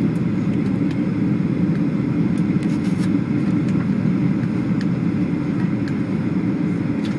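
Steady roar inside the passenger cabin of a Boeing 737 on approach: engine and airflow noise, strongest in the low range and unchanging.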